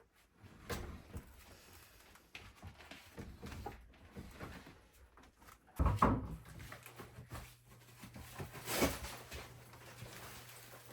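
Scattered knocks, thumps and rustling of hand work on a kitchen floor as old linoleum is pulled up. The loudest thump comes about six seconds in, after which a low steady hum sets in.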